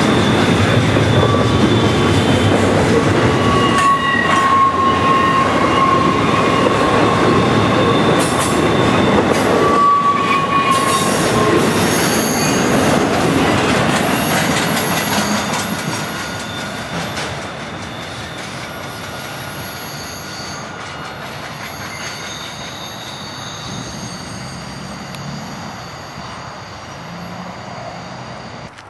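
Double-stack intermodal container train rolling past on a curve: rumble and clatter of the cars, with steel wheel flanges squealing against the curved rail in a steady high squeal. The noise drops noticeably a little past halfway and keeps fading as the last cars go by.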